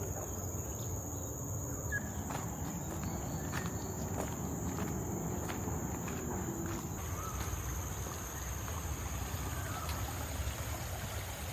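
Steady high-pitched drone of insects in forest, over a low steady rumble.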